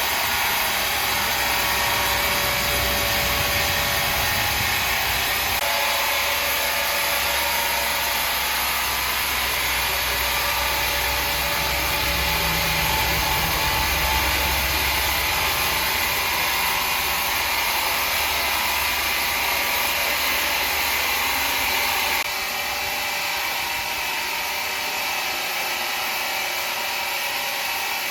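Woodworking machinery running steadily, a constant hissing machine noise over a low rumble. The rumble drops out abruptly near the end, where the sound steps down a little in level.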